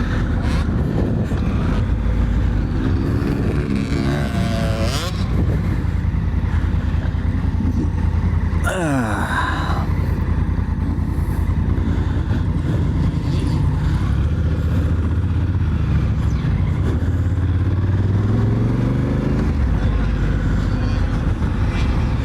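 Honda Africa Twin's parallel-twin engine running at riding speed, its pitch rising and falling as the throttle is worked. There is a sharp falling sweep in pitch about nine seconds in and a rise again near the end.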